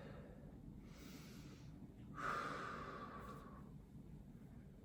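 A person breathing audibly through the nose close to the microphone: two soft breaths, the second louder and longer, starting a little after two seconds in.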